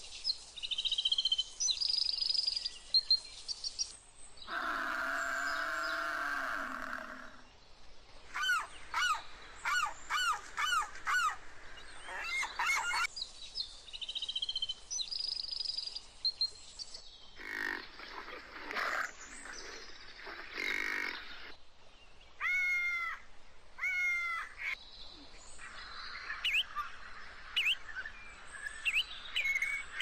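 Assorted bird calls: chirps and whistled notes, repeated in runs and changing every few seconds.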